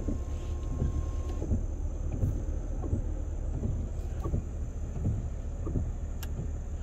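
Windshield wipers sweeping back and forth across wet, freshly washed glass, a soft stroke roughly every half second to second, over a steady low rumble.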